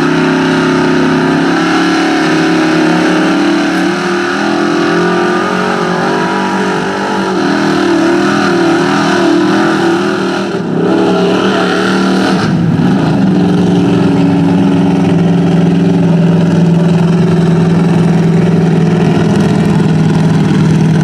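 Lifted Chevy mud truck's engine under hard throttle, revs rising and falling for the first half, then held at steady high revs from about halfway on.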